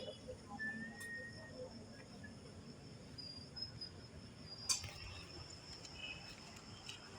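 Crickets chirring faintly and steadily in one constant high tone, with a single sharp click a little past halfway.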